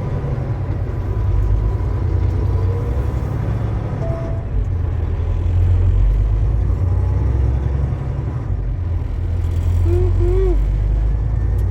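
Semi truck's diesel engine running, heard from inside the cab: a steady low rumble that swells and eases a little a couple of times.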